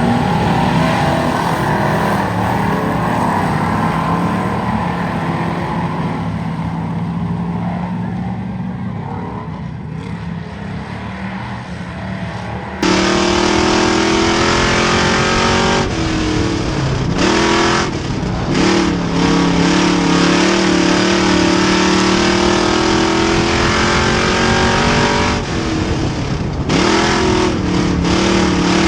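Race car engine running on an oval track. After an abrupt cut about 13 seconds in, a single engine holds high revs, its note dropping off briefly several times as the throttle is lifted for the corners.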